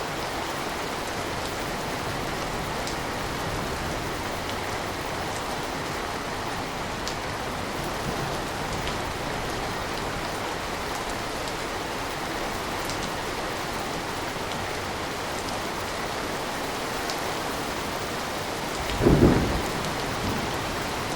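Steady rain with scattered drops ticking, and a short, loud low rumble of thunder about two seconds before the end.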